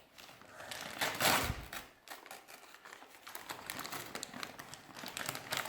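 Gift wrapping paper being torn and crinkled as a present is unwrapped: a short rip about a second in, then a run of quick crackling rustles.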